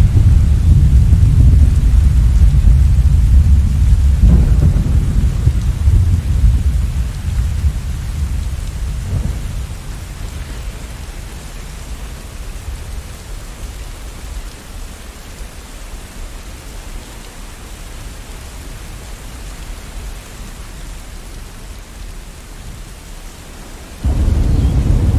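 Thunderstorm: low rolling thunder over steady rain, the rumble dying away over the first ten seconds to leave the rain alone. Near the end a new roll of thunder starts suddenly.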